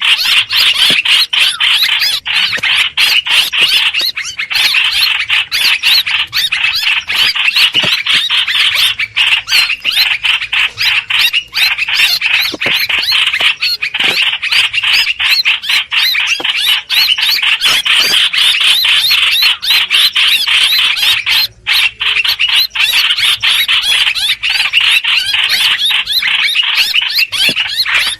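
Hoành hoạch bird lure call, used to draw birds to a trap: a loud, continuous, rapid chattering song, with one brief break a little past two-thirds of the way through.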